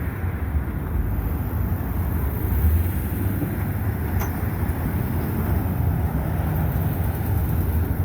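Steady low rumble of road traffic, swelling and easing as vehicles pass.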